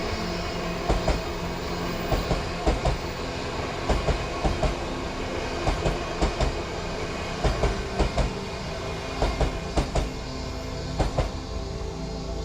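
Odakyu Line train passing on the track, its wheels clacking over the rail joints in repeated pairs about once a second over a steady rumble.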